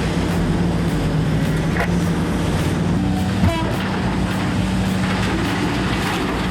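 Heavy diesel engine of an earthmoving machine running under load with a steady low drone, its pitch stepping up slightly about three seconds in, with a short knock just after.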